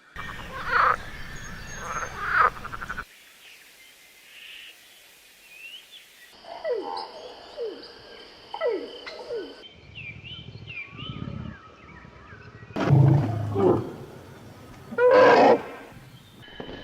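Animal calls in several short clips spliced one after another, each cut off abruptly. Short calls falling in pitch, a few high chirps, and loud calls near the end.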